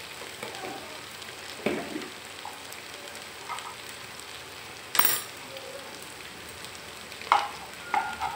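Onion and tomato masala frying in oil in a non-stick pan, sizzling steadily, with chili powder just added. A few sharp knocks break in, the loudest about five seconds in.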